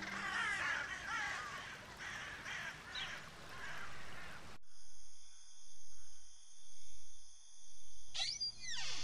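A flock of crows cawing, many overlapping calls, which cut off abruptly about halfway through. A low drone follows, swelling about once a second over a steady high hiss, with a falling sweep near the end.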